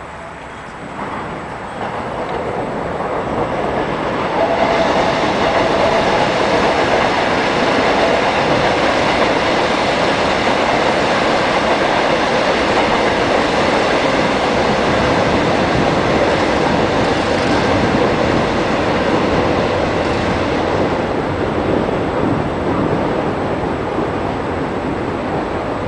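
Electric commuter train of Seoul's subway Line 1 running along the tracks, the rail noise swelling over the first few seconds, staying loud and steady, and easing a little near the end.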